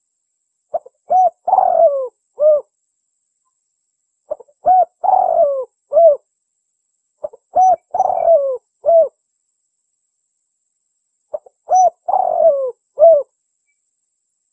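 Spotted dove cooing: four phrases a few seconds apart. Each phrase is a quick short opening note, then a few short coos with a longer falling coo among them. Dead silence lies between the phrases. It is a contest bird's call used as a lure for wild spotted doves.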